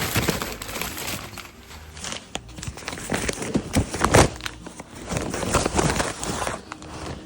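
Belongings being rummaged through by hand: irregular knocks and rustling as books and other items are picked up and set down. There is a louder knock about four seconds in.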